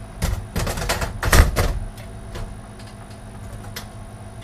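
Clatter of computer parts being handled while drives are fitted into a PC case: a quick run of clicks and knocks through the first couple of seconds, loudest near the middle, then a few faint ticks.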